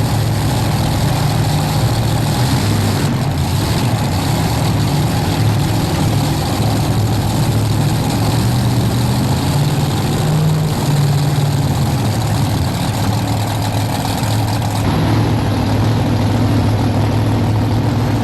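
Modified pulling tractor with three supercharged engines running steadily at low speed after its pull, a deep, even engine hum with small shifts in pitch.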